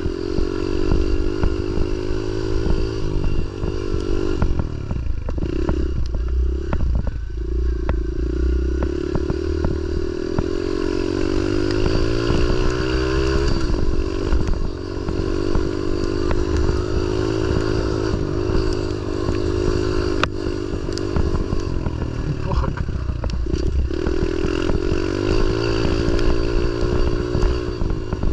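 Pit bike's single-cylinder engine running while being ridden, its note rising and falling again and again as the throttle is opened and closed, with clattering throughout.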